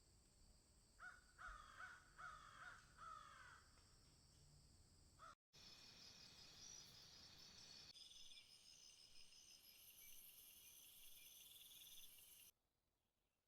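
A bird giving a series of about five harsh, falling calls over a steady high insect hum. Then a cut to a different chorus of high, pulsing insect trills and buzzing, which stops abruptly near the end.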